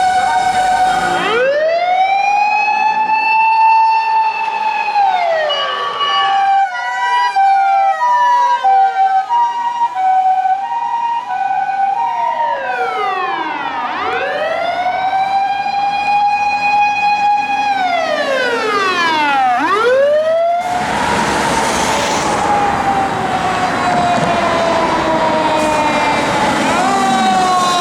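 Emergency-vehicle sirens on a run: an electronic wailing siren rises, holds and falls. For a few seconds it overlaps a two-tone siren alternating between two notes, then wails up and down again. About two-thirds of the way in, a louder passing vehicle brings heavy road noise, with a siren tone slowly sliding down in pitch and a fresh wail rising near the end.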